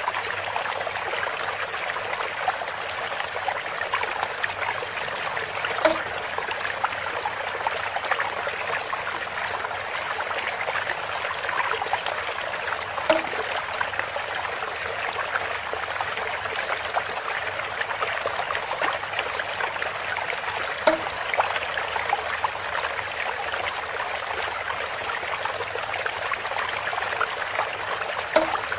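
Water trickling and pouring steadily through a bamboo spout, with a short hollow knock about every seven to eight seconds, four times.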